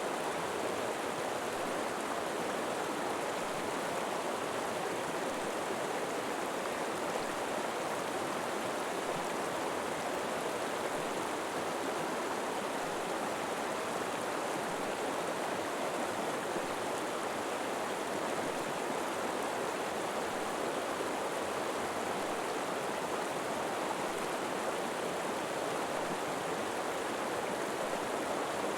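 River water flowing over rocks, a steady, even rushing with no breaks or changes.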